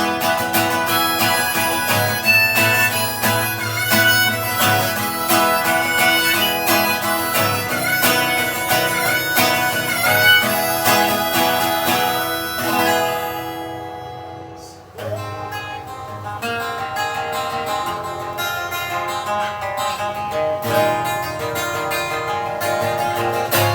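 Acoustic guitar and harmonica playing an instrumental outro that fades out about 14 seconds in. About a second later, fingerpicked or strummed acoustic guitar starts the intro of the next song.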